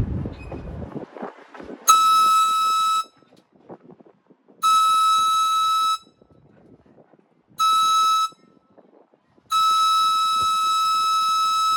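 Train horn sounding four steady single-pitched blasts, long, long, short, long, the standard grade-crossing signal; the last blast is still sounding at the end.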